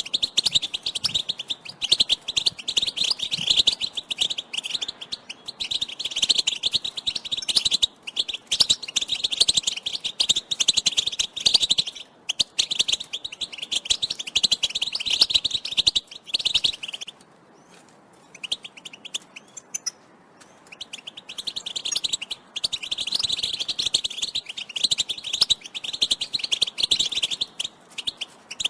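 European goldfinch twittering: fast, unbroken runs of high chattering call notes, with a pause of a few seconds about two-thirds of the way through.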